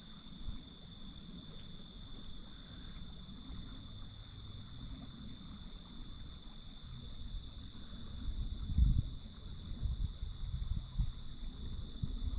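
A steady, high-pitched chorus of insects that goes on without a break. Low rumbles and a few dull thumps come in over the second half; the loudest is about nine seconds in.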